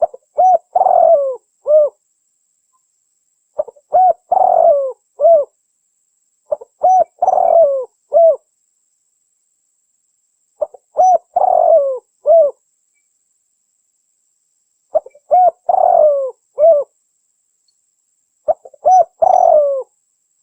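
Spotted dove (tekukur) cooing, its lure call: a phrase of several coos repeated six times, every three to four seconds.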